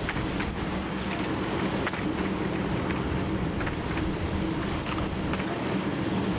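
TU7 narrow-gauge diesel locomotive under way, its V12 diesel engine running steadily, with scattered sharp clicks from the wheels over the rail joints.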